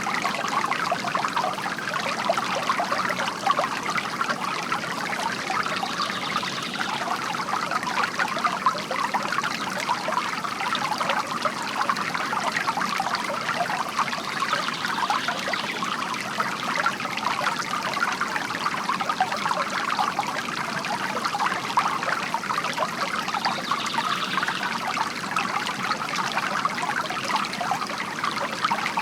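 Water from a bamboo garden fountain trickling and splashing steadily into a basin.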